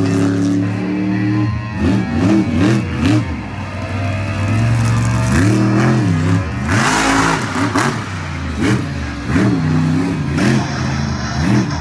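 Monster truck engine revving hard in repeated quick blips, its pitch climbing and dropping again and again. A loud, noisy burst lasting about a second comes about seven seconds in.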